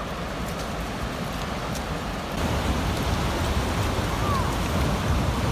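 A steady rushing noise of wind and water that steps up louder and deeper about two seconds in.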